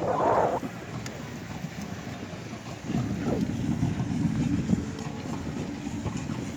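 Wind rumbling on the microphone of a hand-held camera carried on a moving bicycle, heaviest about halfway through, after a brief burst of sound right at the start.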